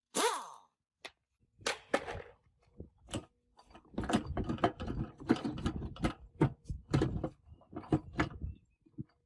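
Metal parts being handled and worked: a brief falling, ringing note at the start, then a dense, irregular run of clicks, knocks and clanks, busiest from about four to seven seconds in, thinning out near the end.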